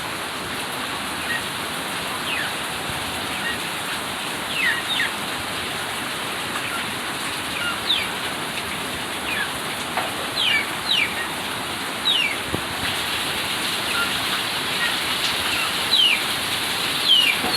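Steady rain falling, with birds giving short, quick downward chirps over it every second or few.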